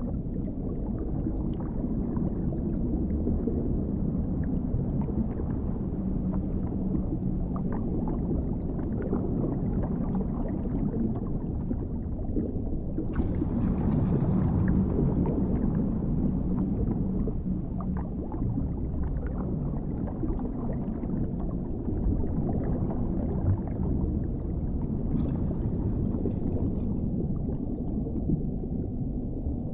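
Underwater ambience: a steady, muffled deep rumble with scattered faint clicks, swelling and growing brighter for a few seconds around the middle.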